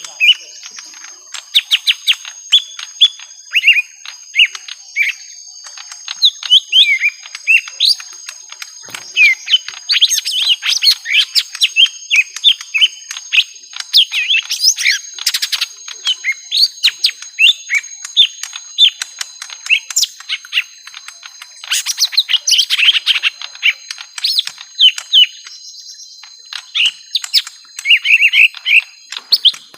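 Young lesser green leafbirds (cucak ijo mini) in a long fighting bout: a dense, continuous chatter of sharp chirps and quick whistled notes sweeping up and down, fired off in rapid runs with hardly a pause.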